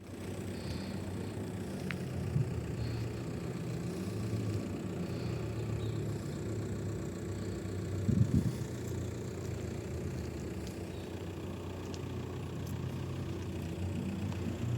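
Chrysler Sebring's Volkswagen 2.0-litre TDI four-cylinder diesel engine idling steadily, with a brief louder swell about eight seconds in.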